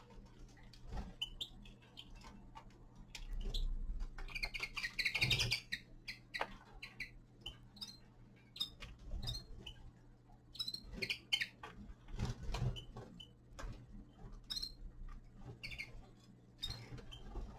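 Small finches feeding: scattered pecking and rustling clicks with short high chirps, and a brief burst of twittering about four to six seconds in.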